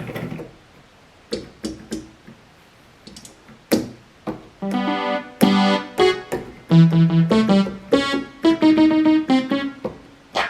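Yamaha PSR-350 portable keyboard playing its DJ-set samples one key at a time. A few short clicks come first, then a string of separate pitched electronic notes, each at a different pitch.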